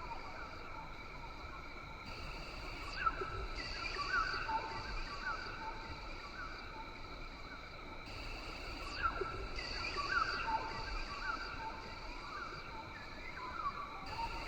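Rainforest ambience: steady high-pitched insect buzzing in several layers that fade in and out every few seconds, with many short repeated chirping calls over it.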